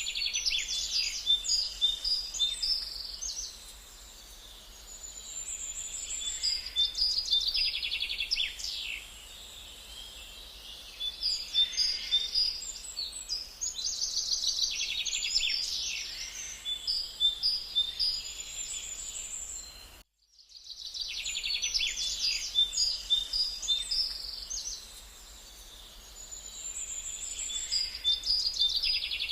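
Songbirds singing, a dense run of high chirps, whistles and quick trills. About two-thirds of the way through it cuts out for a moment and the same birdsong recording starts over.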